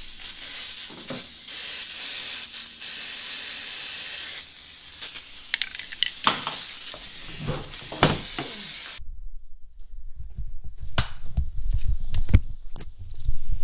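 Aerosol can of high-temp silicone coating spraying uncontrollably from its broken nozzle: a steady hiss with some knocks and clatter, which cuts off suddenly about nine seconds in. After that there is a low rumble with a few sharp clicks.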